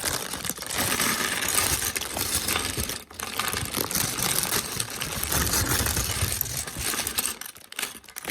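A crinkly plastic Lego parts bag being torn open and handled, with the small plastic bricks inside rattling and clicking against each other.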